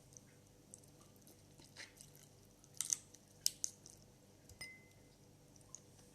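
Crab shell being cracked and bitten while eating, a few sharp crunches with chewing between them, and a brief ringing clink about two-thirds of the way through, like shell or a utensil against a dish.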